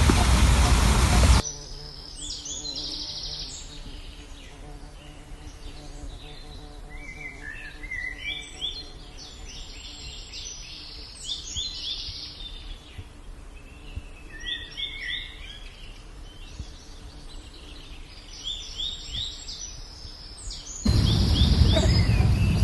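Birds chirping in the trees: clusters of quick, high, mostly falling chirps that come and go in bursts over a faint steady hum. A loud rushing noise fills the first second or so and returns near the end, starting and stopping abruptly.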